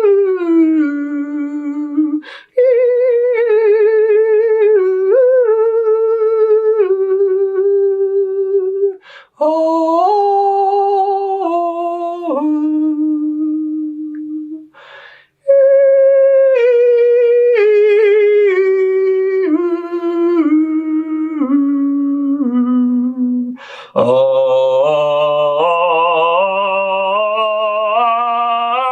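A person's voice humming and singing sustained wobbling tones with vibrating lips, moving note by note in four breaths. The first three phrases step downward in pitch; the last starts much lower and steps upward.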